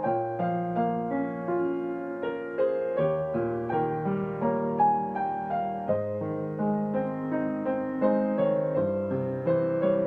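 Solo digital piano playing a song without words: a melody of single notes over held low notes that change every second or two.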